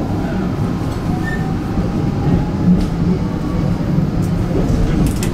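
Hakone Tozan Railway electric train running through a tunnel, heard from inside the front of the car: a steady low rumble of wheels on rail, with a few sharp clicks, the clearest near the end.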